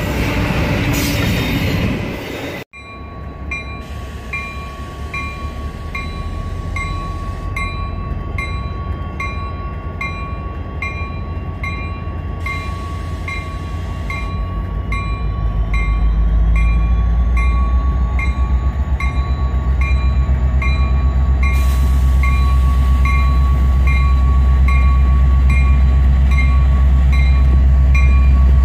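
A diesel freight locomotive passing close, its wheels on the rail making a loud noisy rush, cut off abruptly after about three seconds. Then a Union Pacific diesel locomotive approaches, its engine rumble growing louder from about halfway, while a bell dings steadily about twice a second.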